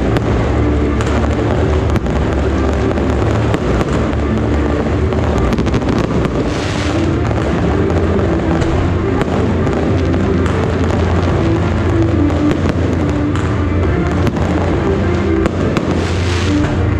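Aerial fireworks launching and bursting overhead, with scattered sharp bangs and a hissing swell about six seconds in and again near the end, over loud music.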